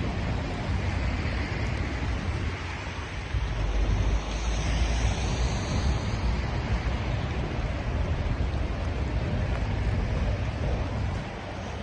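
Steady rushing noise of rain and wind outdoors, with a low rumble of wind buffeting the microphone; it swells louder from about three seconds in for a few seconds.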